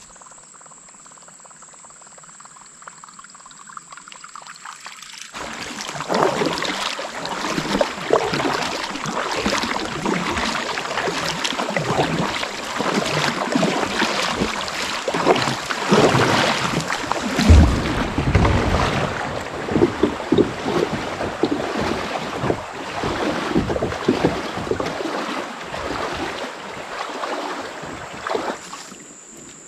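Loud, uneven rushing of water and wind around a kayak on a creek, starting about five seconds in and dying away near the end, over a steady high insect drone.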